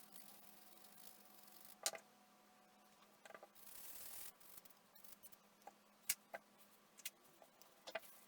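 Faint handling noise of small tools and parts being worked on a bench: a few scattered clicks and taps, the sharpest just before two seconds, around six seconds and near the end, and a brief scraping hiss about three and a half seconds in.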